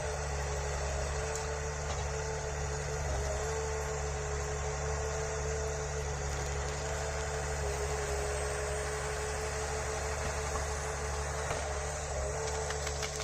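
A forestry harvester's engine running steadily, a constant low hum with a steady whine above it.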